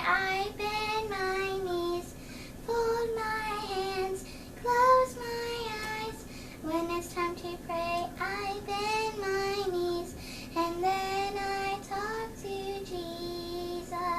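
A child's voice singing a slow song in short, held phrases with brief pauses between them, over a faint steady low hum.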